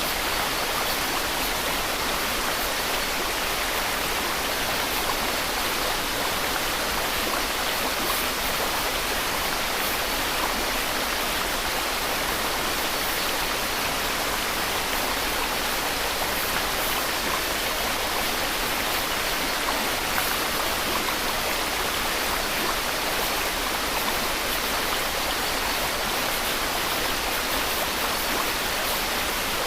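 Steady white noise: an even, unchanging hiss with most of its weight in the high range.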